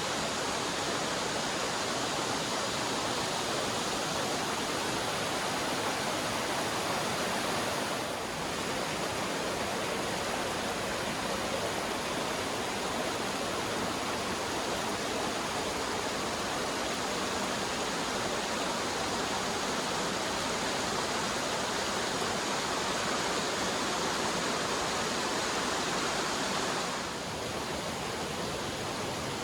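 River water rushing steadily over rocks, an even, unbroken roar. It drops slightly in level about eight seconds in and again near the end.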